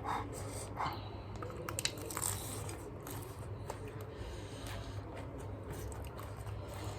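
Close-up chewing and crunching of cabbage, with a few sharp crunches in the first couple of seconds, then softer chewing.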